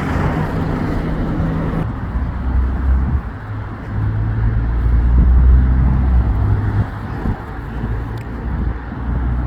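Road traffic passing: tyre noise from a passing vehicle cuts off about two seconds in, then the low drone of vehicle engines swells to its loudest around the middle and eases off.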